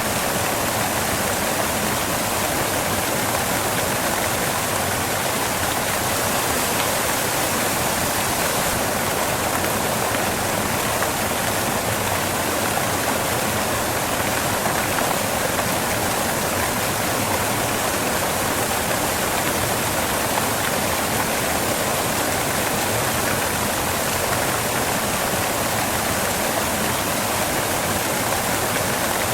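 Waterfall rushing steadily, a constant hiss of falling water with no breaks or distinct splashes.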